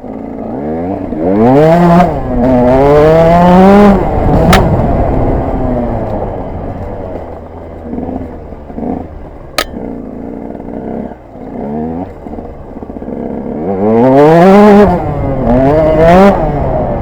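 KTM 125 EXC two-stroke single-cylinder engine accelerating hard twice, pitch climbing in steps as it shifts up, about a second in and again near the end. It runs lower in between, with two sharp clicks in the middle.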